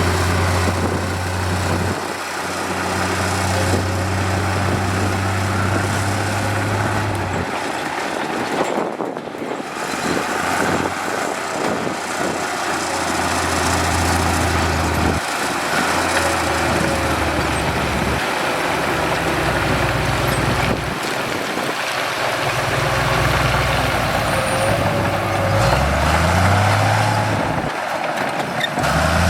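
Heavy diesel construction machinery running, its low engine drone shifting abruptly several times, with an engine revving up near the end.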